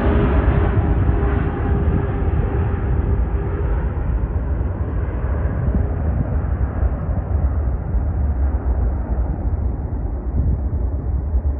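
Jet airliner on landing moving away: a steady engine rumble whose higher whine fades slowly.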